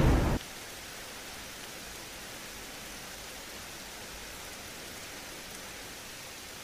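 Steady hiss of rain from a storm sound effect. It follows the tail of a loud thunder burst that cuts off abruptly in the first half second.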